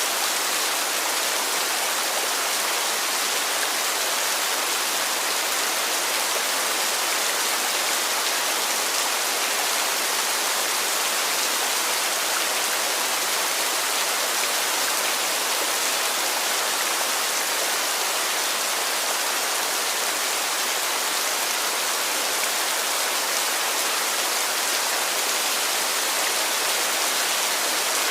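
Heavy rain falling in a steady, even hiss, dense and high-pitched, with no drops standing out.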